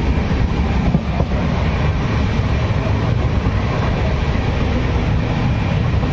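Running noise of a moving passenger train heard at the open gangway between two coaches: a steady rumble.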